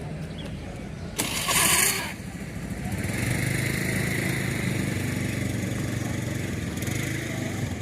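An engine running steadily, preceded about a second in by a short, loud rushing noise.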